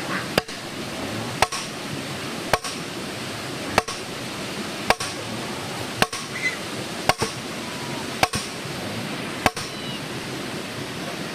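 Steady, evenly spaced blows of a hand tool, about one a second, nine in all, a few of them doubled. The strikes stop near the end, and a steady haze of outdoor noise runs under them.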